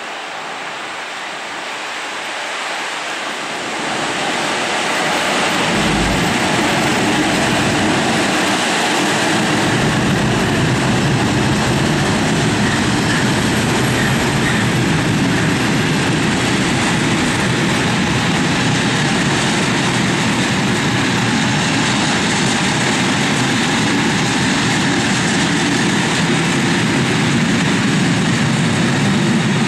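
Freight train hauled by an electric locomotive passing close by. It grows louder over the first four seconds as it arrives, then the wagons' wheels run steadily and loudly on the rails.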